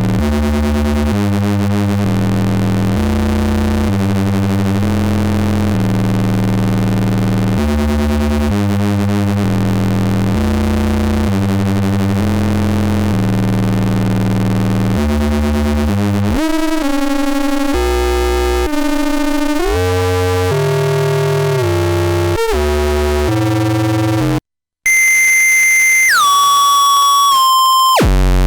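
Square-wave oscillators of a PARATEK "Kosmicheskiy Shum" eurorack noise module (a Jupiter Storm-style design) giving a dense, buzzy synth drone whose chords change in even steps roughly every second. About halfway through the pitches start to glide and jump, then after a brief cut near the end a single high tone steps downward.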